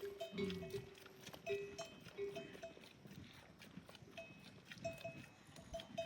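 Livestock bells ringing irregularly, many short clinks in a row, fairly faint.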